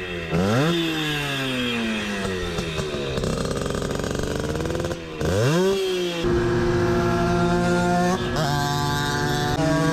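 60 cc two-stroke moped engine revving. The pitch jumps up, then falls away slowly over a couple of seconds, climbs again about five seconds in, then holds steady. It steps down just after eight seconds and back up near the end.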